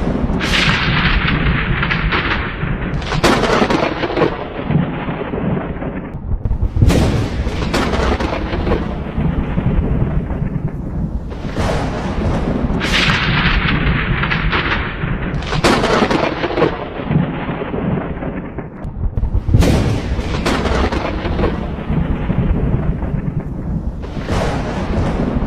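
Thunderstorm: about eight sharp thunder cracks, roughly every three seconds, each rolling off into rumble over a continuous low rumble.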